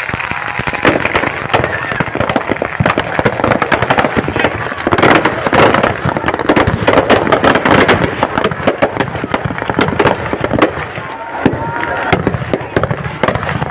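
Firecrackers going off in a dense, rapid crackle of pops, thickest and loudest about five to eight seconds in.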